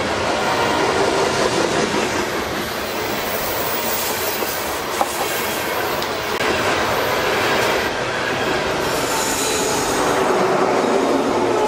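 A freight train's cars rolling past close by with a steady rumble and rattle of wheels on the rails and some clickety-clack. There is a sharp click about halfway through and a faint high wheel squeal near the end.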